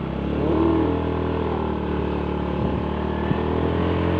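A motor vehicle's engine running steadily at an even speed while travelling along a road.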